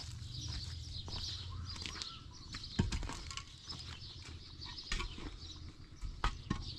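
Birds chirping steadily, with a few sharp knocks about three seconds in, again around five seconds and near the end.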